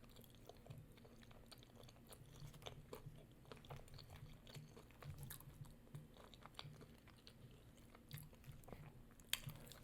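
A person chewing food close to the microphone, faint, with small wet mouth clicks at an irregular pace.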